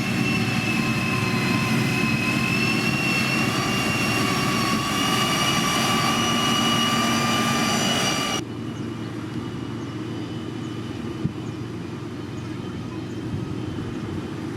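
Diesel engines of heavy road-construction machinery running, with a steady high whine over the low rumble. About eight seconds in, the sound cuts off abruptly to a quieter engine rumble without the whine.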